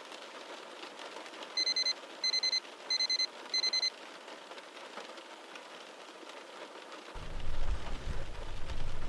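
Rain pattering steadily. About one and a half seconds in, an electronic alarm beeps in four quick bursts of rapid high beeps. A low rumble begins near the end.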